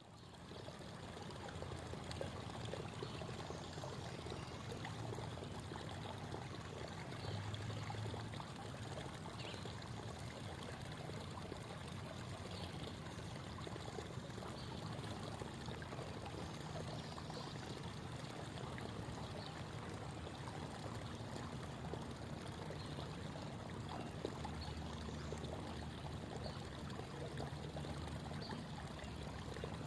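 Small creek babbling and trickling, a steady water sound that fades in at the start.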